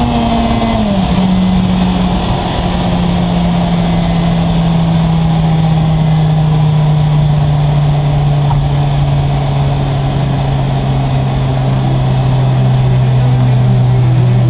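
Turbocharged VW Golf Mk2 engine droning inside the cabin as the car runs at highway speed, over road and wind noise. Its tone drops in pitch about a second in.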